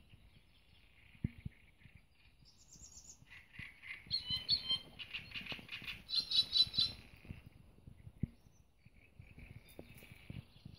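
Small songbird singing: a run of chirps and quick trilled phrases that grows busier and louder from about three seconds in, then thins out near the end. Faint low thumps sit underneath.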